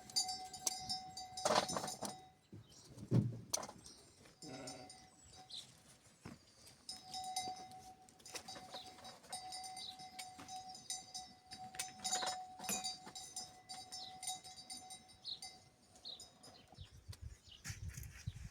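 Sheep and goats bleating now and then over a steady jingling of livestock bells.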